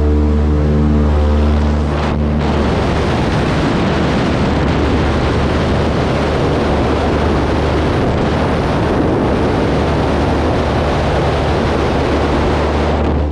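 Beech 18's twin radial engines running loud and steady. An even engine drone turns into a broad rushing noise about two seconds in, and the sound cuts off abruptly at the end.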